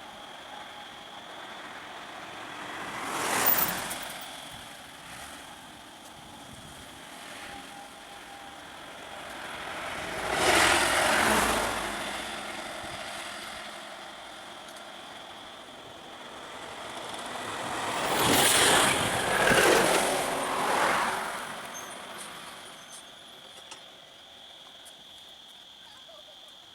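Road vehicles passing by three times, each swelling up and fading away: a short pass about three seconds in, a longer one around ten seconds, and the loudest, with several peaks, around twenty seconds. Faint steady background noise runs in between.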